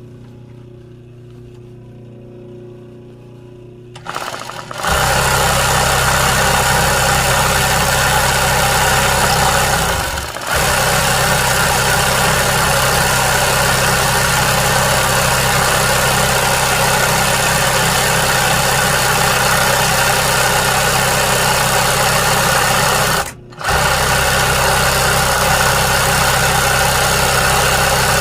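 Sewing machine stitching continuously for machine embroidery. It starts about four seconds in after a low hum, then runs steadily with two brief pauses, about ten and twenty-three seconds in.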